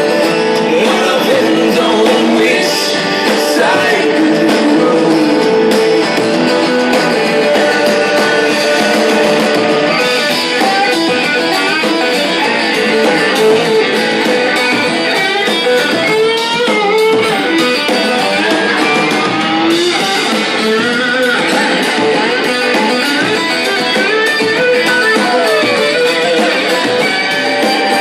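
Live band playing a guitar-led rock song, an instrumental passage with the guitar sliding and bending notes around the middle.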